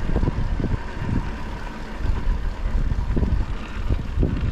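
Wind buffeting the microphone of a chest-mounted GoPro on a moving mountain bike: a loud, uneven low rumble.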